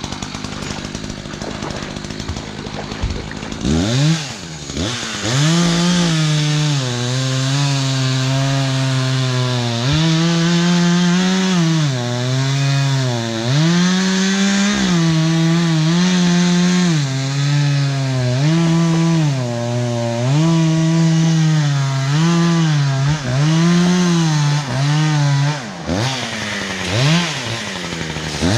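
Chainsaw cutting logs: the saw revs up about four seconds in, then its pitch repeatedly sags under load and climbs back as it bites through the wood, roughly every one to two seconds.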